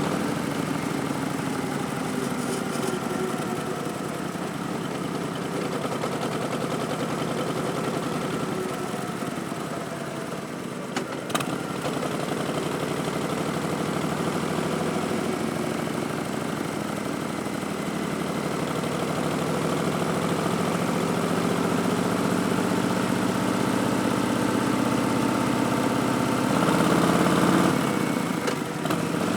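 A 2019 Harley-Davidson Street Bob's Milwaukee-Eight V-twin running under way through V&H Twin Slash slip-on mufflers. The engine note eases off at first, a brief click comes about a third of the way in, then the note builds slowly as it pulls, swelling louder near the end before dropping back.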